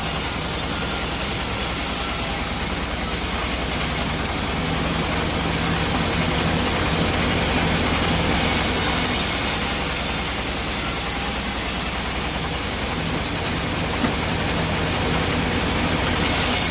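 Sawmill machinery running steadily with a low hum, and a high hiss that comes and goes in stretches of a few seconds.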